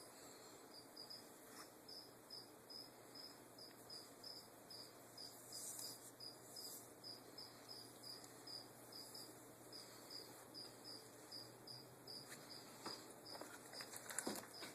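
Faint steady chirping of a cricket, about three short high chirps a second, with a few soft clicks near the end.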